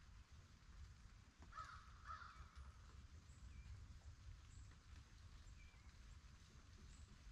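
Quiet ambience: a low steady rumble, with two faint harsh bird calls about half a second apart a second or two in, and a few faint high chirps after.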